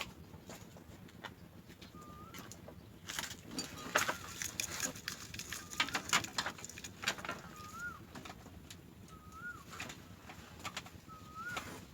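House sparrow chicks chirping in dense, high-pitched begging bursts about three seconds in and again around six to seven seconds, typical of nestlings calling for food. A short rising whistled note repeats every two seconds or so throughout.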